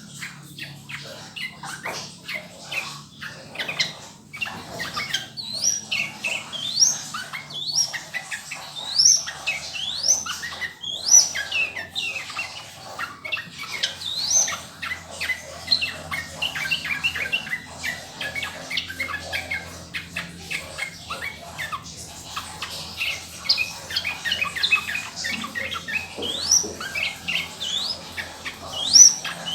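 Yellow-vented bulbul (trucukan) singing a long, unbroken run of quick chirps, with many short notes sweeping sharply upward in pitch.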